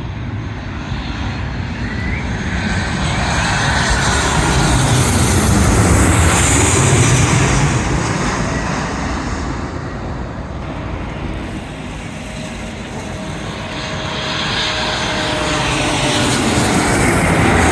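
Airliner flying low overhead: a loud engine rush that swells to a peak about six or seven seconds in and fades. A second swell builds near the end.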